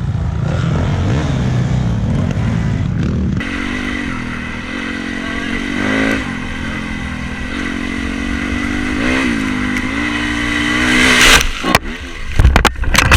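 Dirt bike engine running with short throttle blips, rising to a hard rev, then a series of loud knocks and clatters near the end.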